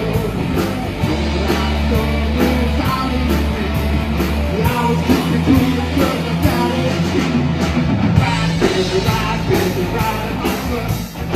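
Live rock band playing an instrumental passage, with electric guitar, bass and drums keeping a steady beat.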